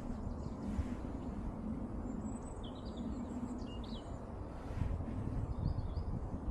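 Small birds giving short, high chirps a couple of seconds in and again near the end, over a steady low outdoor rumble.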